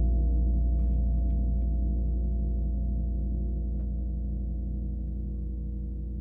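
A gong ringing on after a strike, a deep hum of many overlapping tones with a regular pulsing wobble in the low notes, slowly fading away.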